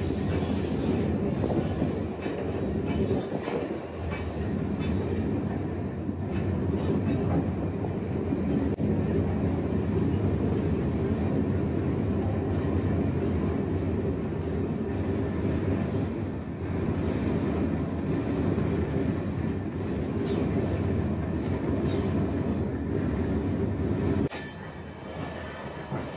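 Loaded iron-ore wagons of a long freight train rolling along the track, heard from on top of an open wagon: a steady heavy rumble with frequent short, sharp metallic noises over it. The level drops about two seconds before the end.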